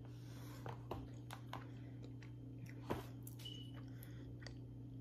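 Close-miked mouth noises of a person chewing a soft cinnamon roll: scattered soft smacks and clicks, the loudest about three seconds in, over a steady low hum.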